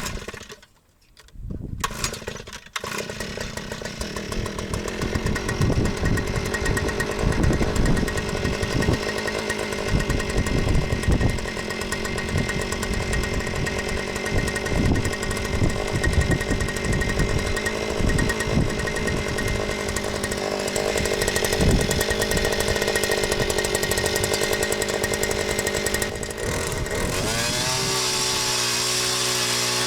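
Small gasoline engine running with an uneven, fluctuating note, then revving up to a steady high pitch near the end.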